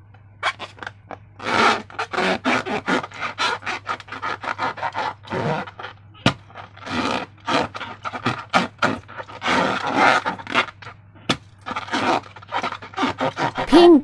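Slime being worked by hand: an irregular string of short wet squelching and scraping sounds, with a brief squeak near the end.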